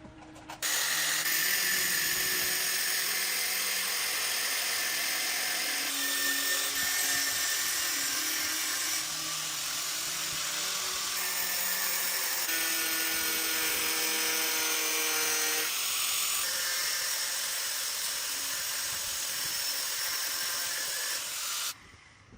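A power tool running continuously with a high-pitched hiss and whine. Its tone shifts every few seconds, and it starts suddenly and cuts off abruptly near the end.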